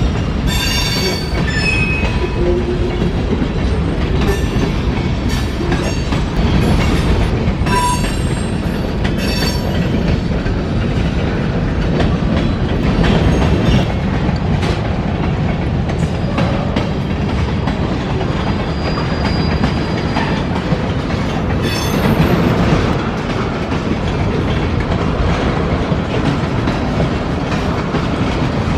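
BNSF freight train's cars rolling past on the rails with a steady rumble and clatter. The wheels squeal shrilly and briefly several times: about a second in, around eight to ten seconds in, and again about twenty-two seconds in.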